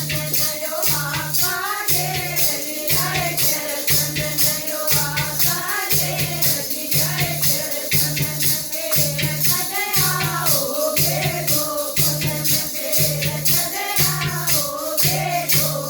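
Haryanvi devotional bhajan being sung, with rattling percussion in quick strokes over a steady low pulsing beat.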